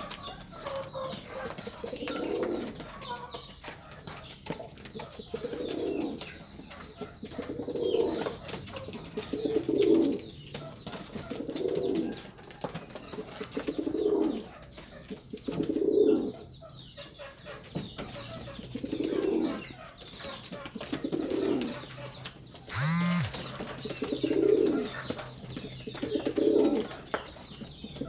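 Domestic pigeons cooing over and over, a low call about every two seconds. A short rising tone cuts in once, about three quarters of the way through.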